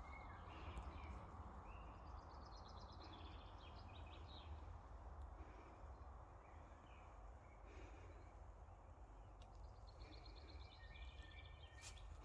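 Faint birdsong outdoors: several short chirps and a couple of rapid high trills from songbirds, over a steady low background rumble.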